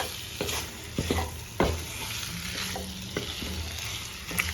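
Chicken pieces and masala frying in oil in a pan, with a steady sizzle, while being stirred: the stirring utensil scrapes and knocks against the pan several times.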